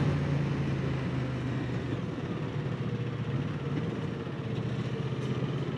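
Moto Guzzi V100 Mandello's transverse V-twin running steadily as the motorcycle slows, heard from the rider's seat as a low drone that fades a little, over a steady hiss of wind and road noise.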